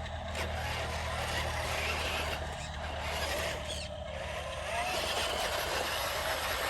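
Remote-control construction truck running: a steady low hum with a noisy whir over it.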